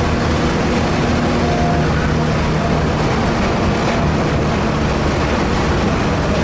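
A car's engine pulling steadily at speed on a race track, with road and wind noise, heard from inside the cabin.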